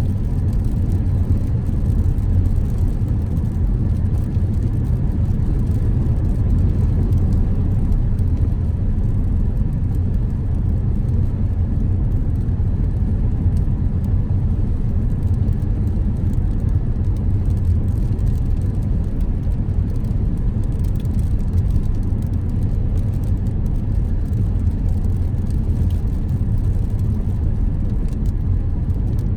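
Car driving at a steady speed: a constant low rumble of engine and road noise with no changes.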